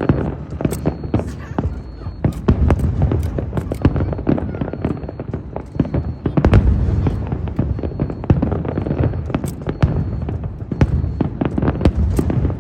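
Aerial fireworks display: a rapid, dense run of sharp bangs and crackles over a continuous low rumble, loudest about six and a half seconds in.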